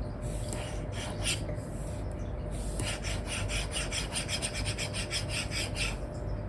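Apple Pencil tip scratching across a paper-like screen film on an iPad. A few separate strokes come first, then from about halfway a quick back-and-forth hatching of roughly seven strokes a second, typical of coloring in an area.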